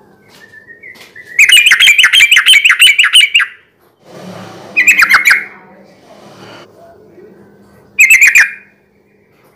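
Yellow-vented bulbul (trucukan) singing loudly: a long, rapid chattering phrase starting about a second and a half in, then two short phrases around five and eight seconds.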